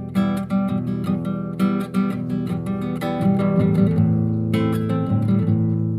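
Acoustic guitar strummed in a quick, even rhythm of repeated chords.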